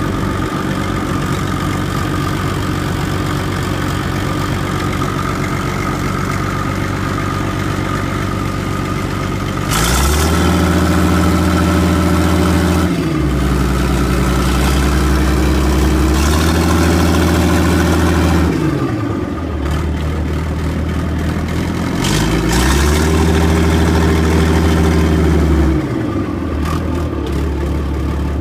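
Fiat-Allis 10C crawler dozer's diesel engine, still cold, idling for about ten seconds and then revved up and held for several seconds. It drops back toward idle and is revved again near the end before falling back.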